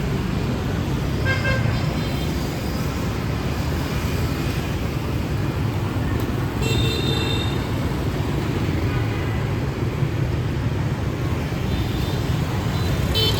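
Busy city street traffic: a steady rumble of engines and tyres, with short vehicle horn toots about a second and a half in and again about seven seconds in.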